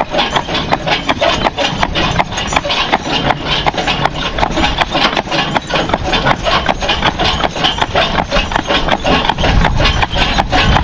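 A team of Suffolk Punch draft horses walking while pulling a wagon: hooves clopping and the wagon rattling in a steady, rapid clatter of knocks, about four or five a second.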